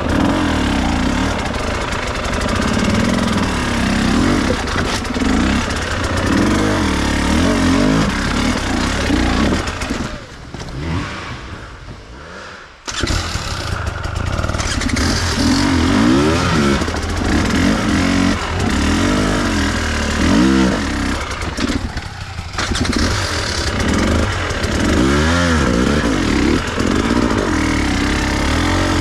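Enduro dirt bike engine revving up and down again and again as it is ridden over rough trail. About a third of the way in it drops to a low level for a couple of seconds, then comes back suddenly.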